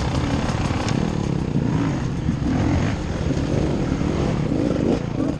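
Enduro dirt bike engine running, its pitch rising and falling as the throttle is worked.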